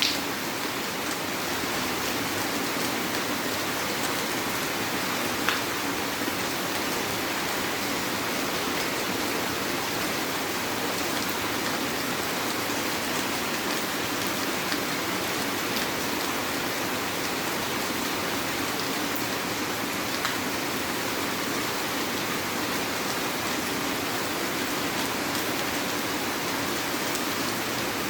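Heavy rain falling steadily, a constant dense hiss with a few sharper single drop hits now and then.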